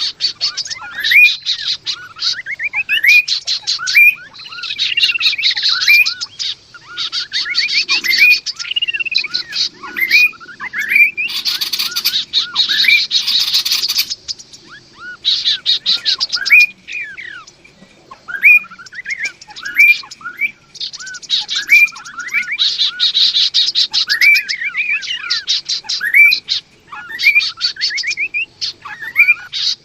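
Kaso-kaso birds, male and female, singing continuously: quick, repeated rising whistles mixed with fast, buzzy chattering trills. A harsher, noisier burst of call comes about twelve seconds in.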